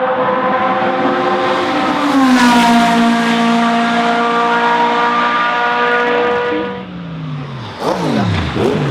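Racing car engines passing at speed. One steady high engine note drops in pitch about two seconds in as the car goes by and fades out, then another car sweeps past near the end with a steep fall in pitch.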